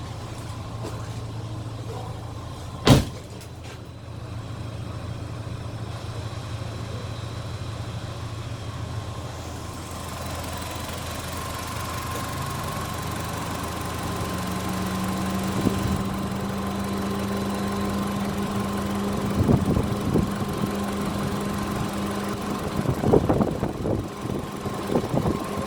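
Volkswagen Polo engine running at idle, with one sharp knock about three seconds in. About halfway through the engine speed rises and holds steady at a higher pitch, and near the end irregular knocks and clatter come in over it.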